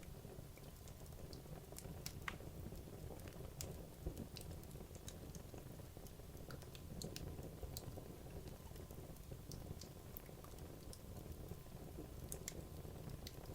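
Wood logs burning in a fireplace, crackling with scattered, irregular small pops over a low steady rumble of the fire.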